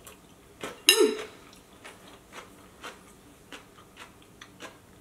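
Person chewing a mouthful of curry rice: soft, wet mouth clicks every fraction of a second, with one louder, brief mouth sound about a second in.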